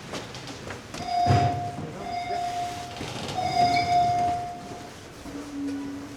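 Train at a station: a steady high warning tone sounds in three stretches over the rumble of the train, then a short lower tone near the end.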